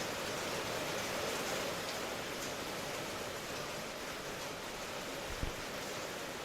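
Steady rain, an even hiss like white noise, with a brief low thump about five and a half seconds in.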